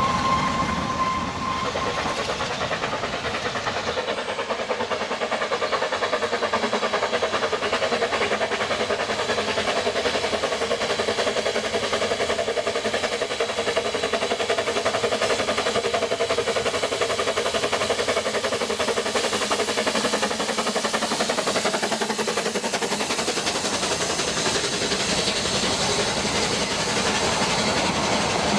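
Ffestiniog Railway narrow-gauge train running, its wheels clattering steadily on the rails. A high steady tone fades out about a second in.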